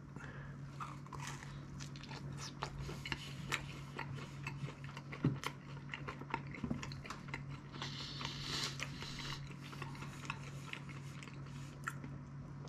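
A person chewing a bite of thin, crispy-crust tomato pizza, with many small crunches and clicks from the crust. A steady low hum runs underneath.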